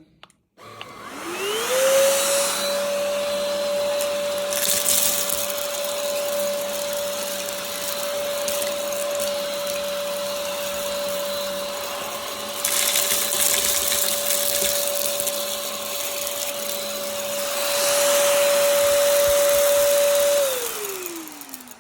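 Cordless stick vacuum cleaner switched on: its motor spins up with a rising whine, then runs steadily with a rushing of air while it sucks up coffee beans from carpet and hard floor, with several louder stretches. It winds down with a falling whine near the end.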